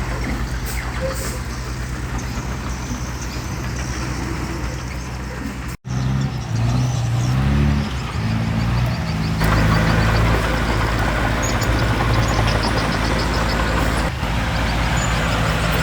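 Heavy diesel engines of dump trucks and a small bulldozer running. About six seconds in the sound cuts out for an instant, then the engine pitch rises and falls for a few seconds before settling into a louder steady run.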